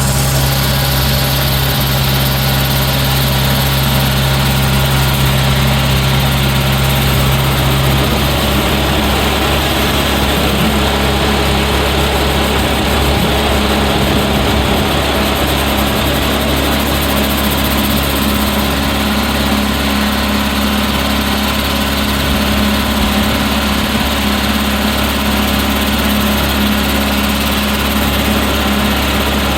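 An engine running steadily, with a low hum whose pitch shifts partway through.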